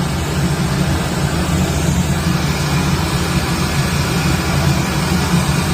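Hair dryer running steadily, a loud even rush of air over a low motor hum.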